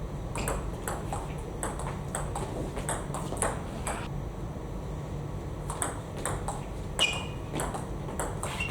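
Table tennis ball clicking in quick succession off bats and table during rallies. There is a run of strokes, a pause of about two seconds, then another run, with a short squeak about seven seconds in.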